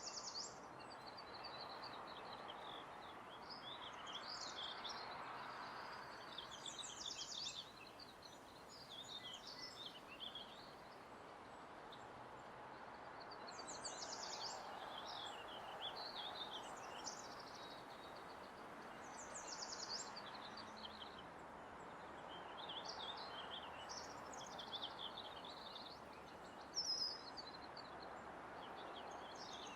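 Ambient soundscape of small songbirds chirping and twittering in short phrases, over a steady wash of distant city noise.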